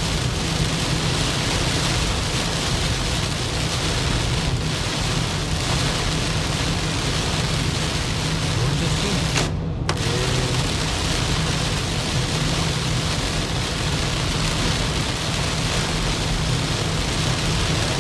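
Heavy typhoon rain on a moving car, heard from inside the cabin as a steady hiss over a low road and tyre drone. The rain hiss cuts out for a moment about ten seconds in.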